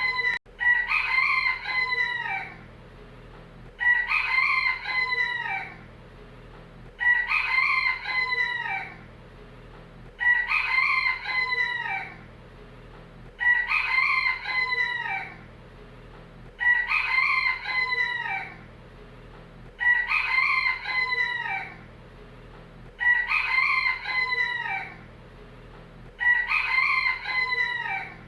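Rooster crowing: the same cock-a-doodle-doo, each about two seconds long, repeated nine times at even intervals of about three seconds, over a faint steady low hum.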